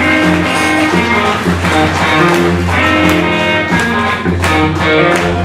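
Live blues band playing a song's instrumental intro, led by electric guitar over a bass line and a regular drum beat.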